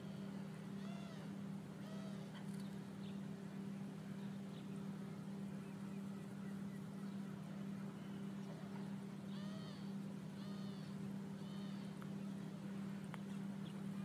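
Bird calls over a steady low hum: a few arched call notes in the first couple of seconds, then three more about a second apart near the end. The hum stays level throughout and is the loudest sound.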